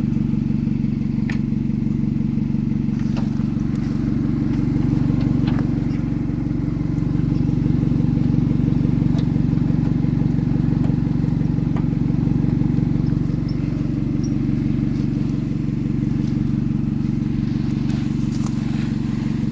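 Car engine running steadily, growing louder about a third of the way in and easing back down a few seconds later.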